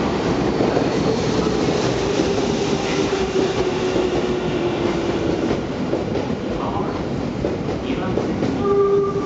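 Yokohama Minatomirai Railway Y500 series electric train running into the platform and slowing, with a steady rumble of wheels on rail and clickety-clack over the rail joints. A motor whine falls slowly in pitch as it brakes. A short tone sounds near the end.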